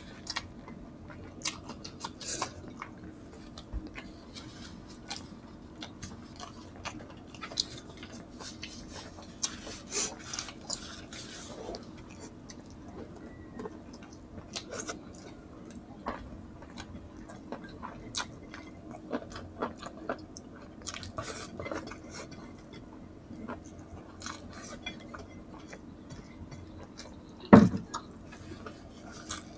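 Close-up eating sounds of two people eating rice and pork by hand: chewing and lip smacks with scattered light clicks of fingers and food on ceramic plates. One louder short sound comes near the end.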